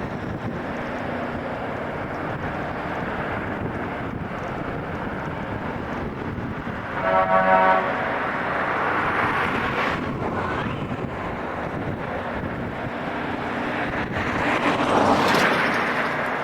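A rail grinding train working along the track, giving a steady, rough grinding noise. A short horn blast sounds about seven seconds in, and the noise swells louder near the end.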